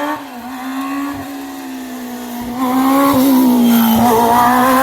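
Rally car engine held at high revs, flat out, its note staying high and nearly level with a slight dip partway through. It gets much louder a little past halfway as the car comes closer.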